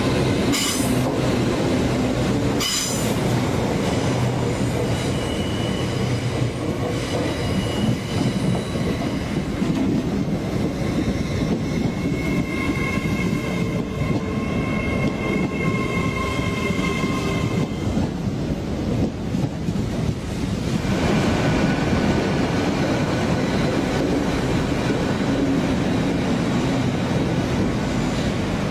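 Passenger train running on the rails with wheel squeal; two sharp clicks near the start, and a high steady squeal for several seconds in the middle that cuts off suddenly.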